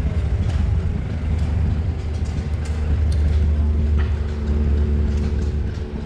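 Car engine running at idle: a steady low rumble with a faint even hum over it.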